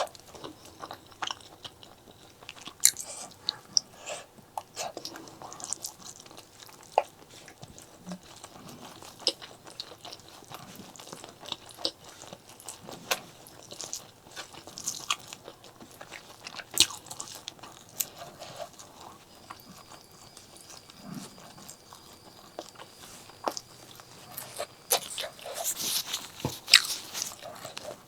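Close-miked eating sounds from a meal of spicy pork leg curry with rice: wet chewing, mouth smacks and sharp crunchy bites at an irregular pace. The smacks come thicker and louder near the end.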